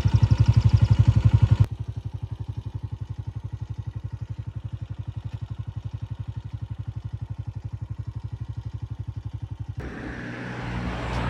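An engine idling with a rapid, even beat, loud for the first second and a half and then steady at a lower level. Near the end it gives way to a rushing noise.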